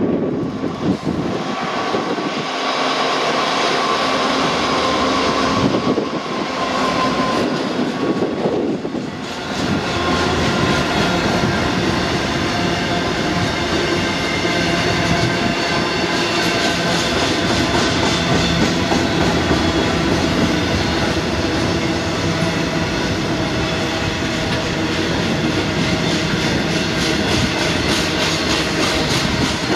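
A Class 66 diesel freight locomotive passes with its two-stroke engine running during the first several seconds. A long rake of open box wagons then rolls by with a steady rumble and the regular clickety-clack of wheels over rail joints.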